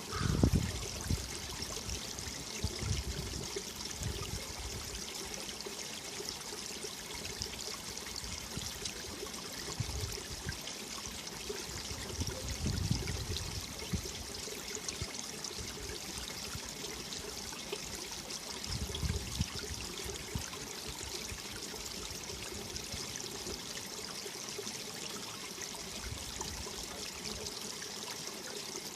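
Mountain valley stream running steadily over rocks, a continuous rushing and trickling of water. Brief low rumbles of wind hit the microphone now and then, the strongest right at the start.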